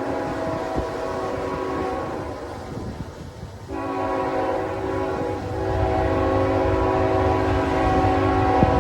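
Diesel locomotive's multi-note air horn on CN 3069 sounding a long blast that breaks off about three seconds in, then a second long blast. The engine rumble grows louder under the second blast.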